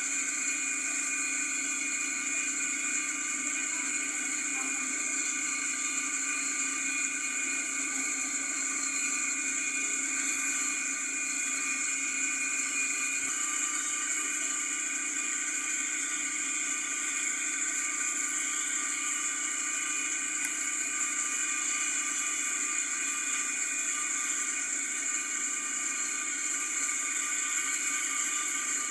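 A steady whirring hum with several constant tones, unchanging throughout, with one faint click about two-thirds of the way in.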